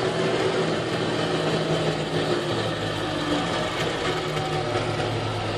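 Vehicle engine running steadily, its pitch dropping slightly about two and a half seconds in.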